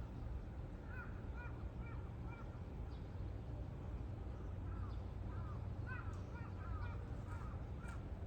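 A crow cawing in short, arched calls: a run of four about a second in, then a quicker run of several more from about six seconds, over a steady low rumble.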